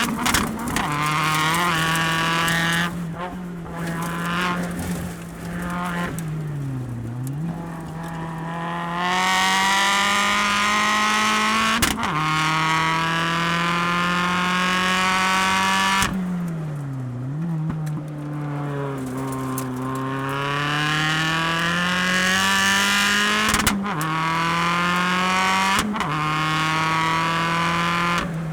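Mini Countryman rallycross supercar's engine heard from onboard at race pace. Its note climbs again and again, broken by sharp cracks, and three times it dips briefly before rising again.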